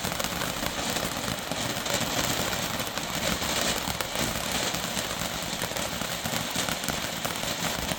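Small 10-gram gold ground fountain firework burning: a steady hissing spray with fine crackles.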